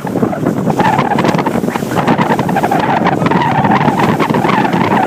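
Johnson outboard on a bass boat running under way through waves, with a wavering steady tone over a dense rush, and heavy wind buffeting the microphone.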